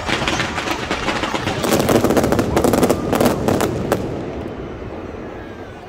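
Aerial fireworks going off in a rapid string of pops and crackles, densest about two to four seconds in, then thinning out.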